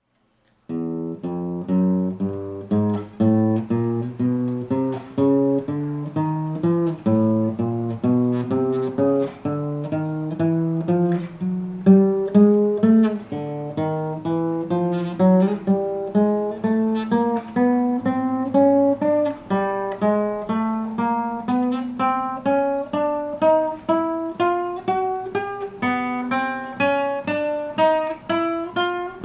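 Acoustic guitar played one plucked note at a time, fret by fret up the neck in small rising steps, about two notes a second. The run starts a little under a second in and drops back to a lower note twice before climbing again.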